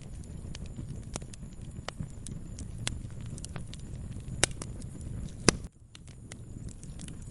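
Wood fire in a fireplace crackling: a steady low rumble of burning with frequent sharp pops and snaps, two of them much louder in the second half. The rumble briefly drops away just after the second loud pop, then carries on.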